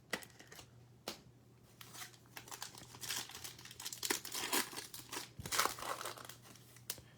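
Foil wrapper of a football trading-card pack being torn open and crinkled. A couple of sharp clicks come in the first second, then crinkling that grows denser and is loudest past the middle.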